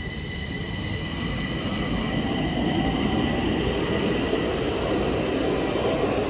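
A Stockholm Metro train running on the track, growing louder over the first three seconds and then holding steady. A rumble of wheels on rail sits under a steady high whine.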